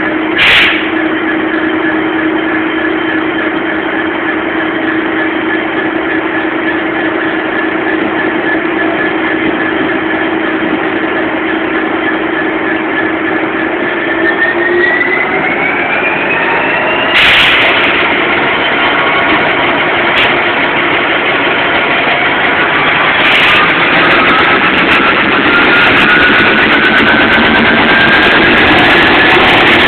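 Metrolink diesel locomotive running steadily at the platform, then pulling away: about halfway through its pitch starts to rise and keeps climbing as the train gathers speed. A few sharp knocks are heard along the way.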